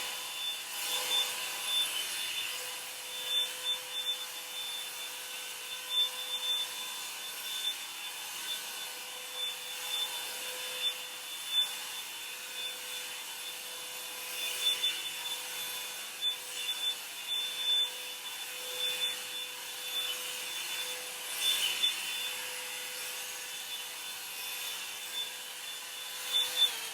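Revlon One-Step hot-air brush dryer running on high heat: a steady fan hiss with a motor whine, and the bristles rubbing and rasping through hair in uneven strokes.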